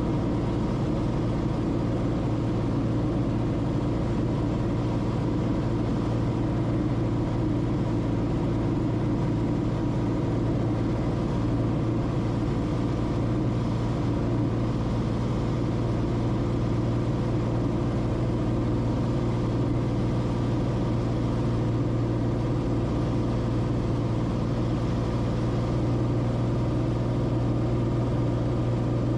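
Cessna Corvalis TTX's turbocharged six-cylinder engine and propeller droning steadily, heard inside the cockpit, with no change in pitch or power.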